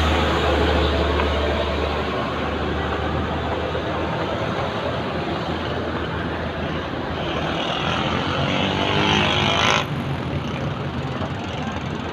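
Steady rush of road and wind noise from riding downhill, with a deep rumble underneath. It swells for a few seconds, then drops off suddenly near the end.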